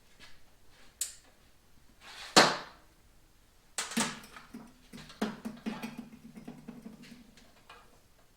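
Metal parts and hand tools knocking and clanking: a sharp click about a second in, a loud knock a little over two seconds in, then a run of clanks from about four seconds in, with a metallic ringing tone that hangs on until about seven seconds.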